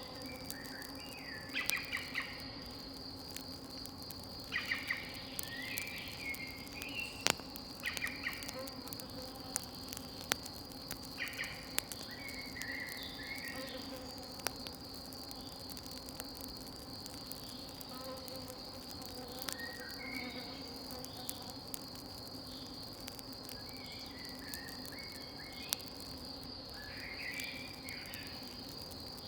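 Crickets trilling steadily at a high pitch, with birds chirping in short bursts every few seconds. Occasional sharp pops and crackles of a campfire, and a low steady hum.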